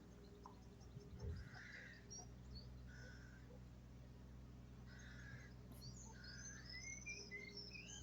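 Faint wild bird calls: several short, harsh calls spaced a second or two apart, with high thin chirps and a run of rising whistled notes near the end.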